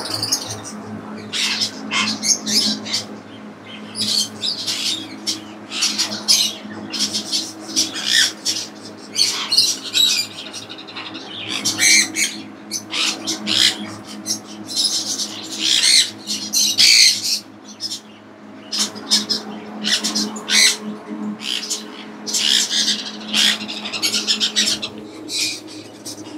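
Caged birds chirping and squawking in many short, high calls throughout, over a steady low hum.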